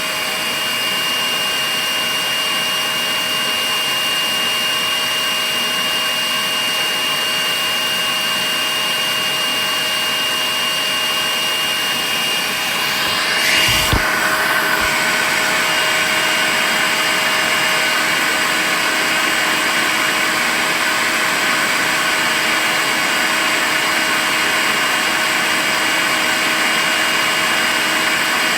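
Makita cordless vacuum cleaner running continuously: a steady rush of air with a high whine on top. About halfway through there is a brief knock, and the whine changes note slightly.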